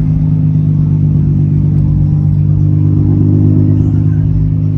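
Car engine running loudly close by: a deep, steady exhaust note that swells slightly a little over three seconds in.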